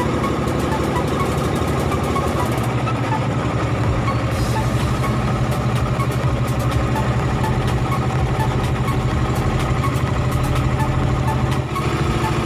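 Boat engine running steadily at an even speed, with a brief dip in level near the end.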